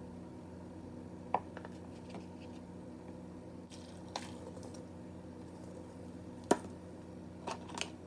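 A few scattered taps and clicks of kitchenware, the sharpest about six and a half seconds in, over a steady hum of a kitchen appliance.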